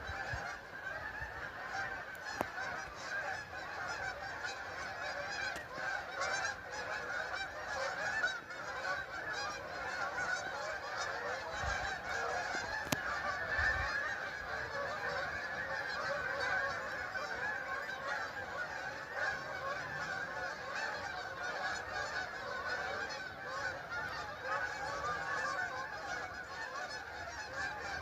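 A large flock of Canada geese honking continuously, many calls overlapping at once.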